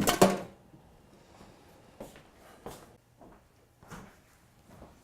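Handling noises in a small room: a loud clunk at the very start, then a few soft knocks about a second apart.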